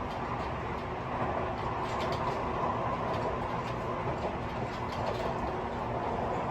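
Tobu 50090 series electric train running steadily at speed, heard from inside a motor car: an even rumble of wheels on rail with faint steady tones underneath, and light rattling from the gangway.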